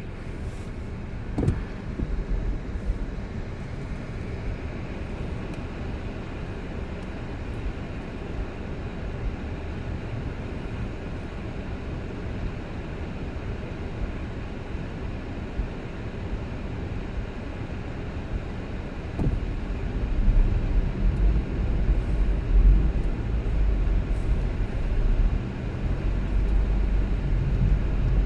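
A car driving, with a steady rumble of road and engine noise. About two-thirds of the way through it grows louder and deeper. There is a short knock about a second and a half in.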